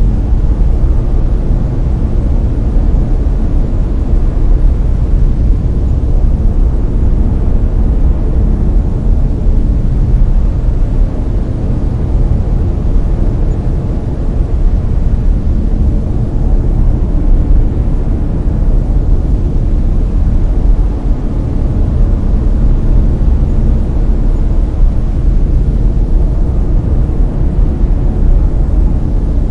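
Brown noise: a steady, loud, deep rumbling hiss, strongest in the low end and falling away toward the treble, with no changes or events.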